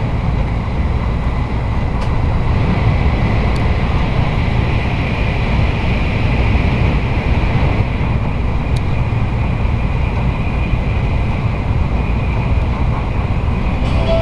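Interior running noise of an N700-series Shinkansen passenger car: a steady low rumble with a hiss of wheel and air noise. Near the end the first notes of the on-board announcement chime begin.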